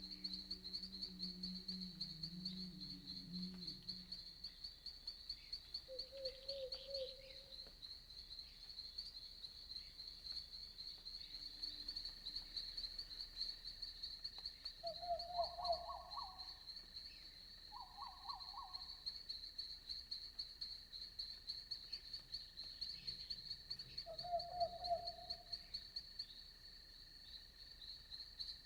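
Night insects trilling in a steady, fast-pulsing high chorus, joined a few times by short, lower trilled calls, frog-like croaks, including a pair about halfway through. A low drone sounds in the first few seconds.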